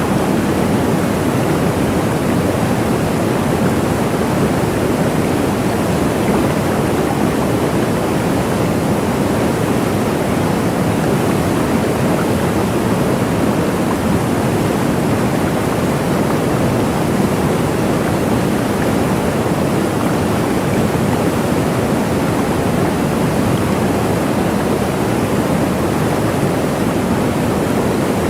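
Waterfall: a steady, even rush of falling water, loudest in its lower range, with no breaks or changes.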